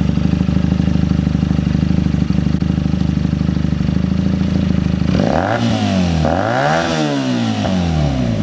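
Vehicle engine running steadily, then revved up and back down twice from about five seconds in.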